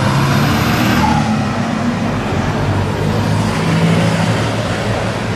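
A car engine running loud and steady, with road and exhaust noise.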